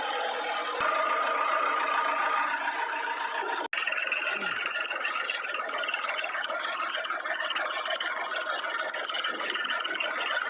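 Engines of farm and earth-moving machinery running steadily. The sound breaks off for an instant about four seconds in, then carries on much the same.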